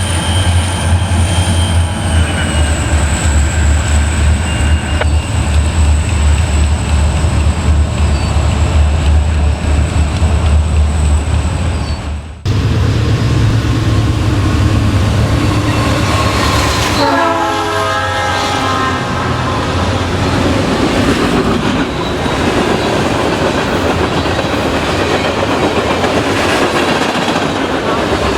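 Diesel freight locomotives rumbling past with a steady high whine over the engine sound. After a sudden cut, another train passes: its air horn sounds for about two seconds, then the rolling cars clatter by steadily.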